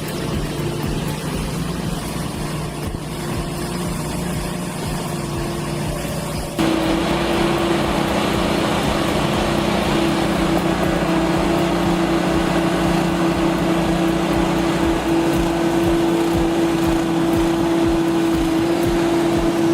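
Heavy haulage truck engines running steadily under load, with a low, even hum; about six and a half seconds in the sound steps up suddenly and runs louder.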